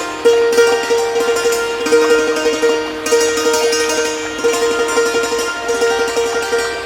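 Thai khim, a hammered dulcimer struck with bamboo mallets, playing a slow melody, with one note struck over and over in quick strokes.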